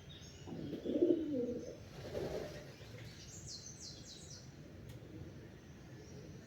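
Wild birds calling. A low call comes about a second in and another just after two seconds, the loudest sounds here. A quick series of high chirps follows at about three and a half seconds.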